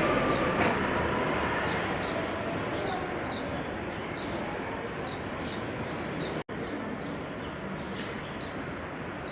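Short high bird chirps repeating two or three times a second, often in pairs, over a steady background hiss. The sound drops out for an instant about six and a half seconds in.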